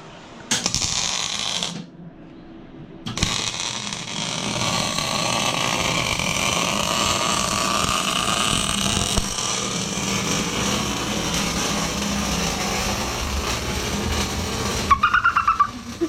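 A power tool running: a short burst of about a second, then after a brief pause a long steady run, with a few sharp clicks near the end.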